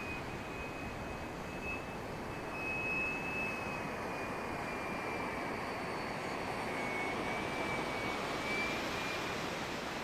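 A 90mm electric ducted fan model Hawk jet in flight: a thin, high fan whine that wavers up and down in pitch, over a steady rush of wind noise on the microphone.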